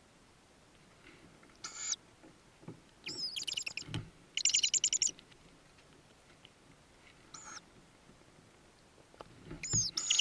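Tawny owl chicks in the nest box making high, rapidly pulsed chittering calls in four short bouts, the longest at about three to five seconds in and another near the end. There are a couple of soft low thumps, at about four seconds in and again near the end.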